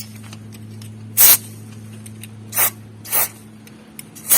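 Aerosol can of penetrating fluid sprayed in four short hissing bursts, soaking the ball joint so the fluid can loosen it.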